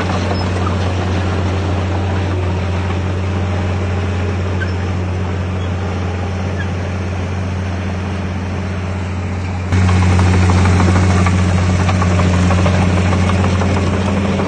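Heavy diesel engine of earthmoving machinery running steadily with a deep hum. About ten seconds in the sound jumps suddenly louder and stays that way.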